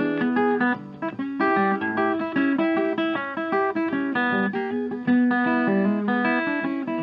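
Background music: a guitar playing a quick run of plucked notes.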